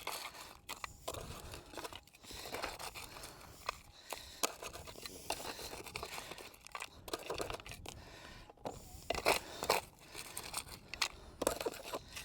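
Irregular scraping and crunching of dirt, gravel and rocks being sifted and moved with a scoop and by hand while searching for a metal-detector target, with scattered knocks of stones.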